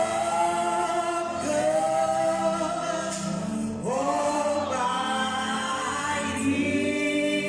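Choir singing gospel music, long held notes that slide to a new pitch every second or two over a steady low accompaniment.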